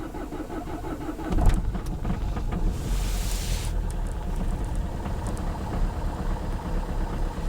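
Peugeot 307 2.0 HDi diesel engine cranking on the starter in a cold start at about −10 °C with burnt-out glow plugs. It catches with a loud burst about a second and a half in, then settles into a steady idle. A short hiss comes about three seconds in.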